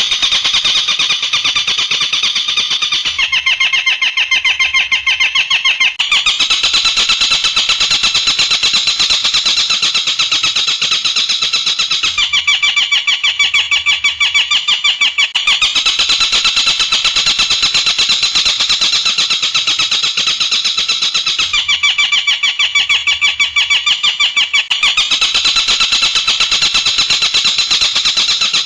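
Looped recording of a rapid, buzzing trilled call played as a songbird-training track. One trill pattern alternates with a second, slightly lower trill that comes in for about three seconds at a time, three times.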